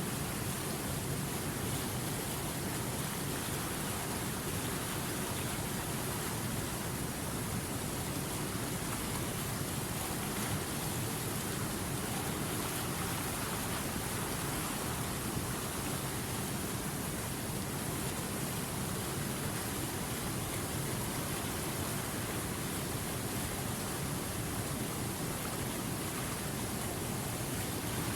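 River water rushing steadily over rocks and rapids, an even, unbroken rush with no single splashes standing out.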